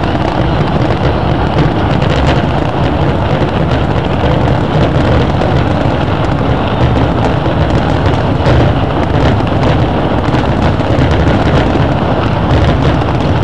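Distant fireworks barrage: a continuous rumble of many overlapping bursts with fine crackling, with no single standout bang.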